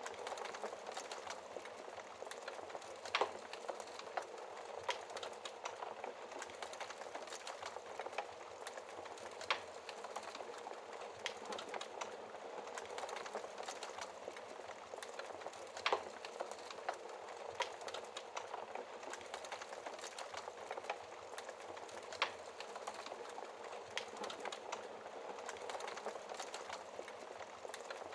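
Wood fire burning in a fireplace: a steady soft hiss with frequent small crackles and a few sharper pops, the loudest about three seconds in, near ten seconds, at sixteen seconds and at twenty-two seconds.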